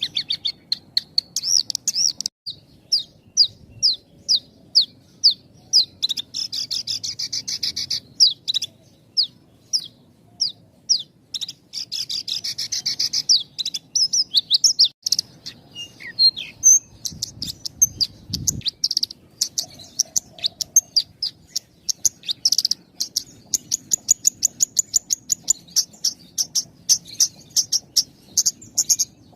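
Horsfield's bushlark (branjangan) singing: a long, near-continuous string of quick, high chirps and trills with only very short gaps between phrases.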